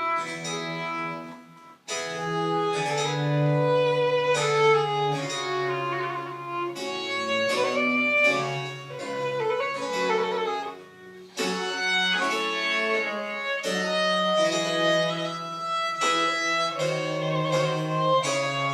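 French Baroque chamber music played live by a small ensemble of wind and string instruments: sustained melodic lines over a bass line, with short breaks between phrases about two seconds in and again near the middle.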